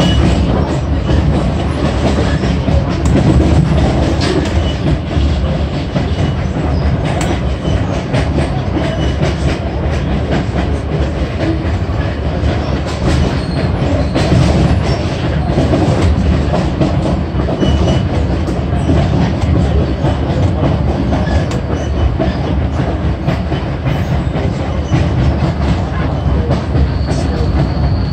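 Passenger train running along the track: a steady, loud rumble of wheels on rails with frequent clicks of the wheels over the rail joints. A thin high whine comes in near the end.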